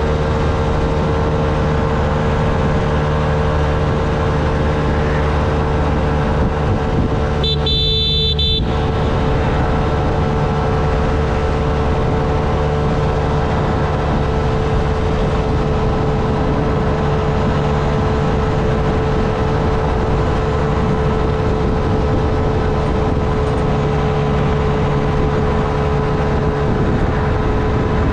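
Honda Navi's small single-cylinder engine running steadily while riding, with wind and road noise. About a quarter of the way in, a vehicle horn sounds once for about a second.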